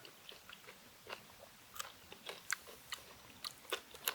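A person chewing and biting food close to the microphone: irregular sharp mouth clicks, more frequent in the second half.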